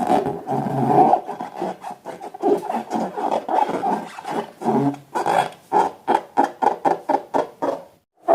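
Rubber balloons being handled and squeezed in short, irregular strokes, which quicken into a fast, even series of pulses in the second half and cut off suddenly just before the end.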